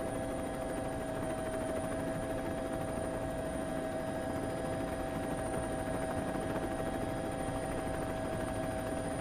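A steady engine drone held at one constant pitch, with no revving or passing sweep.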